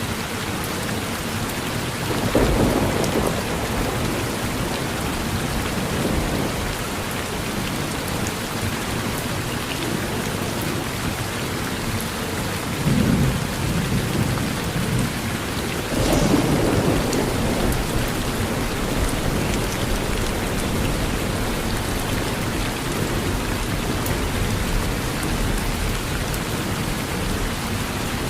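Steady rain falling on a porch during a thunderstorm. Thunder claps about two, thirteen and sixteen seconds in, and the last one rumbles on for several seconds.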